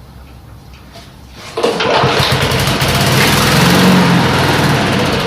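Snapper walk-behind lawn mower's small engine firing up suddenly about a second and a half in and running, getting louder toward the middle, then easing slightly. It is the mower that won't stay running, still misbehaving with its new carburetor.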